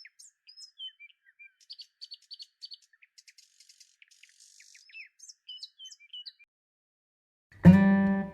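Birds chirping and whistling in short, high calls, which stop about six and a half seconds in. Near the end, acoustic guitar music starts with a strum.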